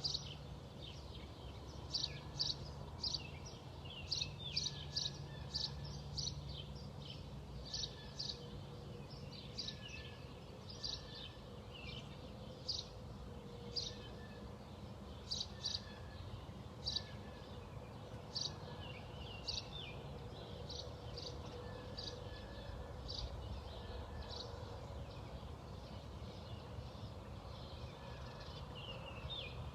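Bird chirping: short high chirps repeated over and over, about one or two a second, growing sparser near the end, over a steady low hum.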